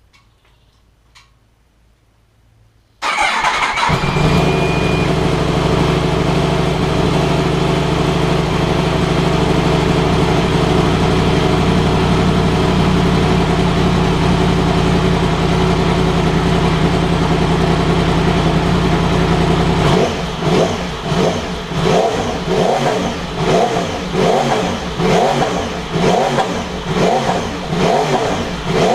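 2016 Yamaha R1M's crossplane inline-four, fitted with an Arrow Pro-Race titanium end can, starting up about three seconds in and running at a steady idle. About two-thirds of the way through it is revved in short throttle blips, about one a second.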